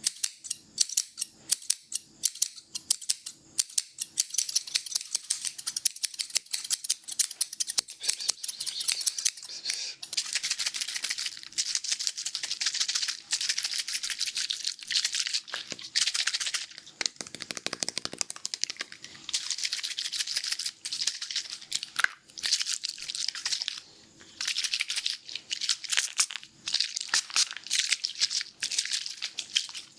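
Close-miked scissors snipping hair in quick series of sharp clicks, which crowd together in long stretches into a fast, hissy snipping.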